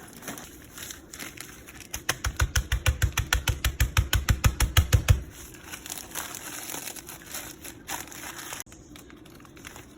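Takis rolled tortilla chips being crushed, likely in a plastic bag: a quick, even run of pounding strikes, about eight a second, for some three seconds, then quieter crinkling and crunching.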